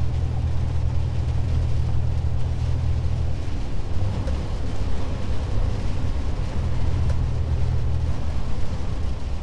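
Scania S500 truck heard from inside the cab while driving: a steady low engine drone under an even hiss of road noise.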